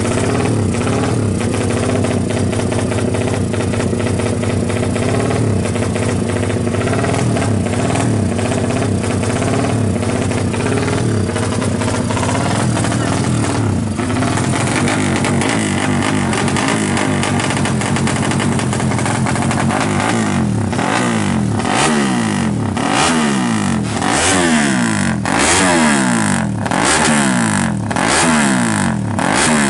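Suzuki FU drag bike's single-cylinder four-stroke engine, bored to 200 cc and fitted with twin exhausts, running steadily at idle, then revved in quick repeated blips about once a second through the last third.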